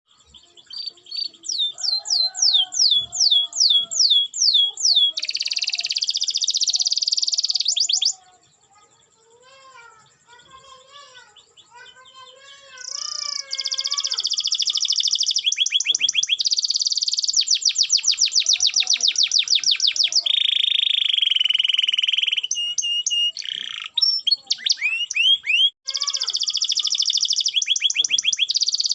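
Domestic canary in full song: loud, fast runs of repeated high trills and falling notes, each note run repeated many times before switching to the next. About a third of the way in the song drops to a quieter, lower warble for a few seconds, then the loud rapid trills return.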